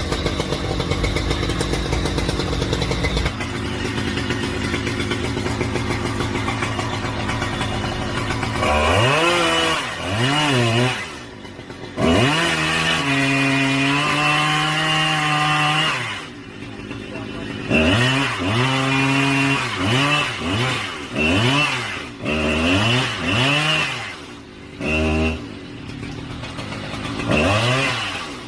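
A chainsaw engine running steadily, then revved up and down again and again from about eight seconds in, its pitch rising and falling in quick sweeps and now and then held high for a second or two, with brief drops between.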